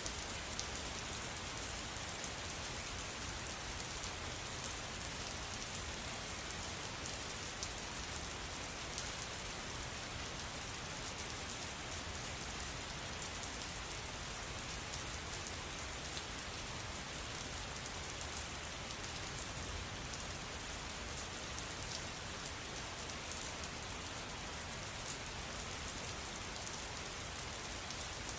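Steady rain falling, a constant hiss with many separate drops ticking through it.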